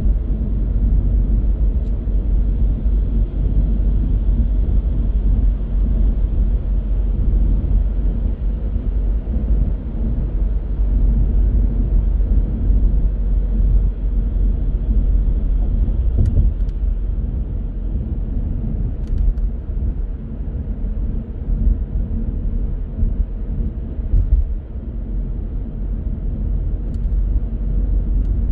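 Car driving, its engine and tyres making a steady low rumble.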